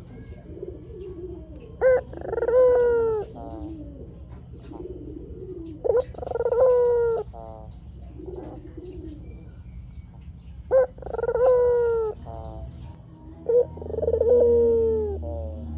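White Barbary dove (puter putih) cooing. There are four loud phrases about four seconds apart, each a short sharp note followed by a longer drawn-out coo. Softer, lower coos fill the gaps between them.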